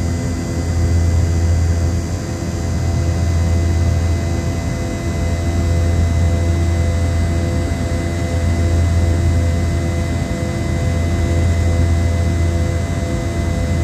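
Steady drone of a Boeing 717-200's rear-mounted Rolls-Royce BR715 jet engines heard inside the cabin, a deep even rumble with a constant whine above it.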